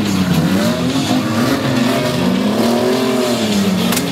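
Demolition derby car engines revving hard, their pitch swinging up and down about once a second as drivers spin their wheels and ram. A single sharp knock comes near the end.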